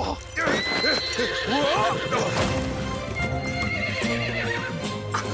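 Sound-effect horse galloping with hoofbeats and neighing, over dramatic orchestral music.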